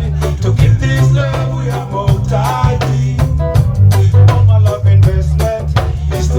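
Live reggae band playing a lovers rock song, with a heavy bass line and drum kit keeping a steady beat.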